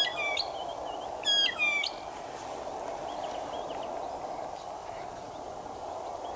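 Bird calls: two loud bursts of high, clear notes, one at the start and another about a second later, then a few fainter chirps, over a steady background noise.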